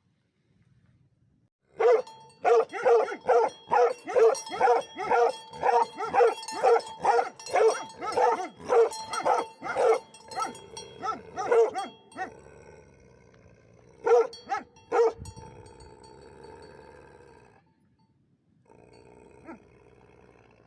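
Livestock guardian dogs barking: a long run of rapid, deep barks at about two to three a second, then after a short pause two more single barks.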